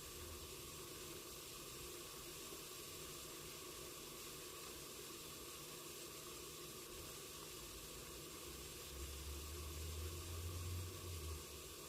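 Faint steady sizzling and simmering of a stir-fry of squash, pork and tomato cooking under a lid. A low rumble rises briefly about nine seconds in and fades near the end.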